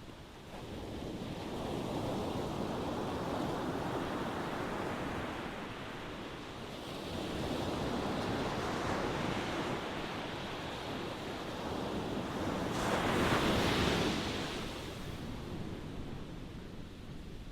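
Ocean waves breaking and washing on the shore: the surf swells and ebbs, with one louder wave crashing about thirteen seconds in before it draws back.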